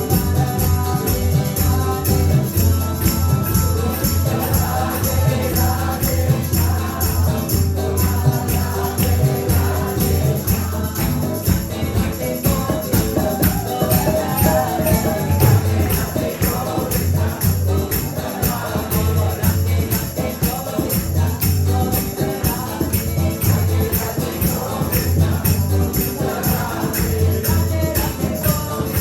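Upbeat kirtan music: a group singing a call-and-response chant over a steady, quick beat with jingling percussion.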